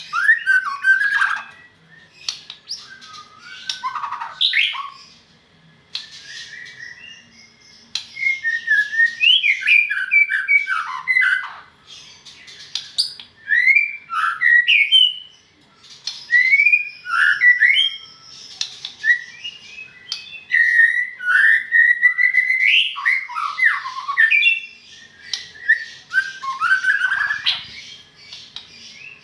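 White-rumped shama (murai batu) singing: fast, varied whistled phrases with rapid up-and-down slides in pitch, delivered in bursts of a second or more separated by short pauses.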